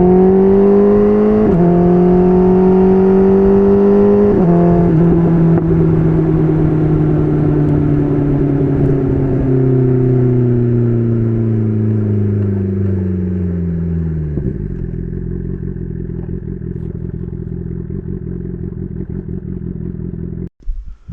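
BMW S1000RR's inline-four engine through an SC Project CR-T titanium exhaust, revving up through two quick upshifts in the first few seconds. The rider then rolls off and the engine note falls steadily for about ten seconds before settling into a low, steady run. The sound cuts out briefly near the end.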